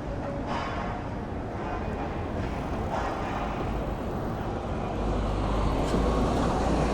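Street traffic: engines and tyres of passing vehicles, with a low rumble that grows louder about five seconds in.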